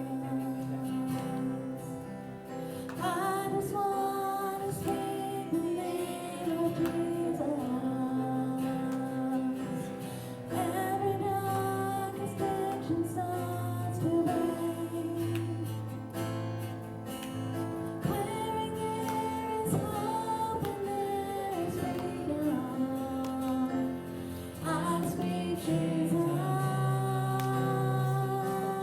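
A woman singing a slow song over guitar accompaniment.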